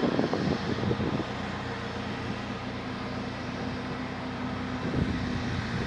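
Jet engine rumble of an Airbus A320neo climbing away on takeoff power, loud and crackling for about the first second, then dropping to a steadier, quieter drone with a low hum.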